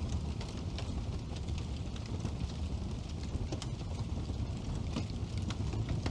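Wood fire burning in a fireplace: a steady low rumble of the flames with frequent small, sharp crackles and pops from the burning wood.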